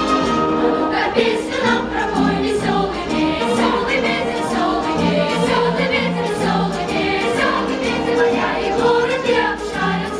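Music with a choir singing over instrumental accompaniment.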